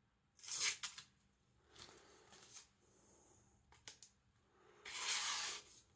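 Sheet of thin paper rustling in several short bursts, with a few light clicks, as it is handled and cut with a freshly sharpened gyuto.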